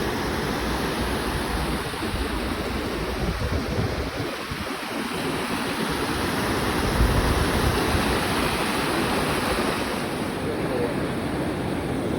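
Wind rushing over and buffeting the microphone: a steady hiss with an uneven, gusting low rumble.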